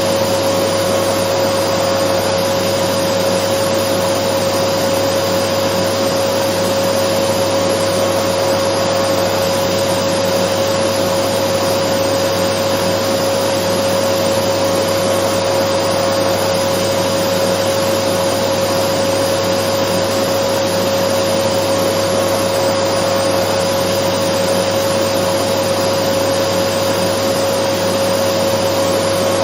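Dyson vacuum cleaner running steadily: a constant motor whine over the rush of air, with no change in pitch or level.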